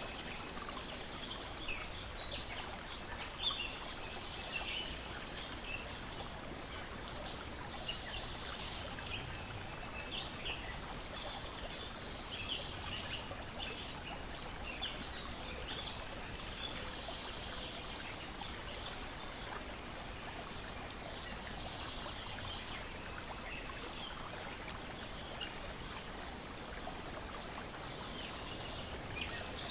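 Ambience of lake water gently lapping, a steady wash of water noise, with many small birds chirping and singing over it.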